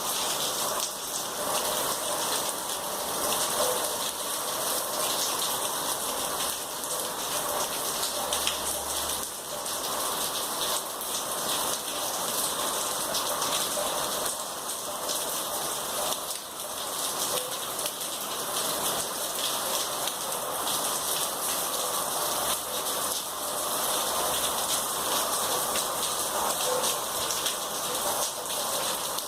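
Heavy rain falling steadily, a dense, even hiss of countless drops hitting surfaces.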